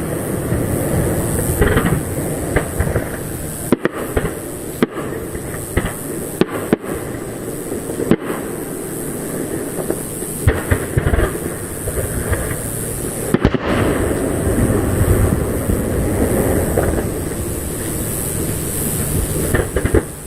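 Aerial fireworks display: shell bursts overlap into a continuous rumble, with sharp, loud bangs every second or few.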